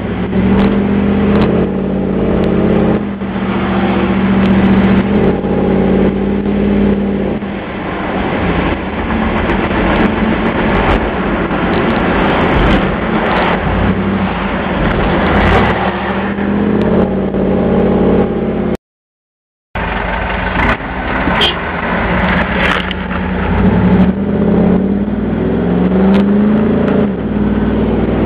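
1996 Chevrolet Camaro Z28's 5.7-litre LT1 V8 running through a Flowmaster exhaust, its engine speed rising and falling repeatedly. The sound cuts out completely for about a second, about two-thirds of the way through.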